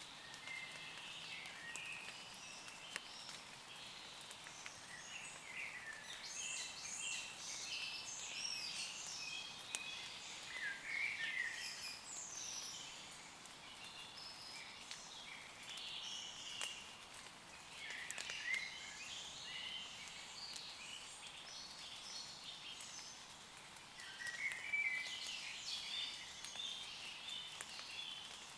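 Several woodland birds singing, with overlapping high chirps and trills in bouts: busiest in the first half, again about two-thirds of the way in, and near the end. Beneath them is a faint steady hiss of light rain on leaves.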